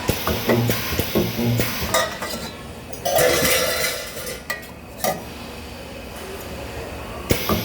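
Metal sheet parts clinking and clattering as they are handled at a spot-welding station. About three seconds in there is a louder hiss lasting a second or so.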